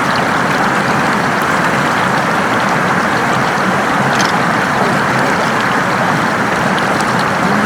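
Floodwater flowing fast, a steady rushing noise with a few faint ticks.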